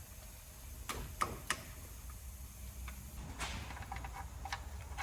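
Socket wrench loosening a car's 13 mm oil drain plug: a few sharp metallic clicks about a second in, then fainter scattered clicks.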